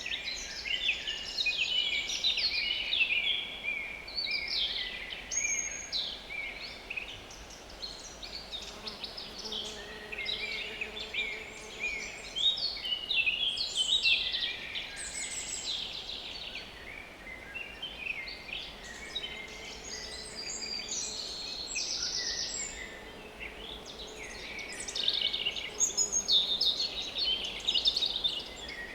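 A dense chorus of small woodland songbirds singing and calling over one another. Twice, a fly buzzes faintly near the microphone beneath the song.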